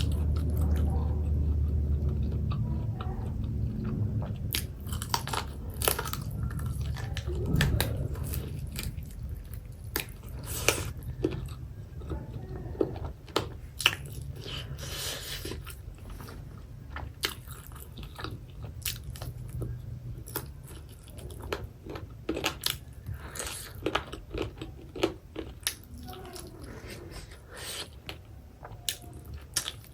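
A person chewing and biting food close to the microphone, with crisp crunching bites and sharp mouth clicks scattered throughout.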